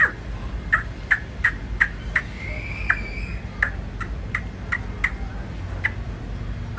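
Aseel chick peeping: a quick series of short, sharp high cheeps, two to three a second with a brief break, and one longer drawn-out peep a little before the middle.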